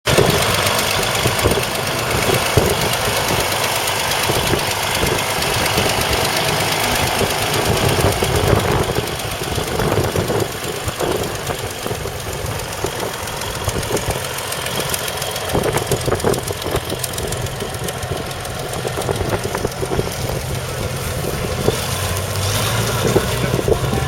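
Fiat Versatile 44-28 articulated tractor's 14-litre six-cylinder diesel engine running at a steady level.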